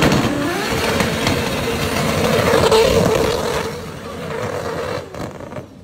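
Modified sports car accelerating hard: loud engine and exhaust noise after a shift at the start, fading away near the end as the car pulls off.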